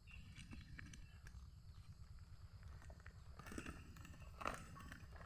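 Near silence: a faint low rumble with a few soft rustling sounds a little past halfway.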